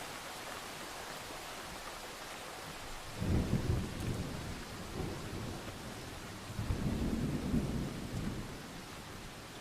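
Steady rain with distant thunder rumbling twice, a low rumble building about a third of the way in and a second one just past halfway, each dying away.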